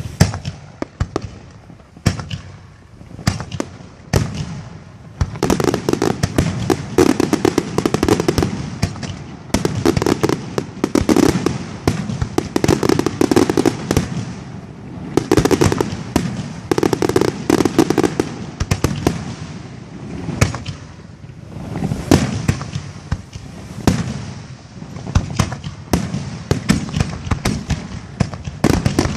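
Fireworks display: aerial shells bursting in many sharp, overlapping bangs and crackles, coming in dense waves with brief lulls between them.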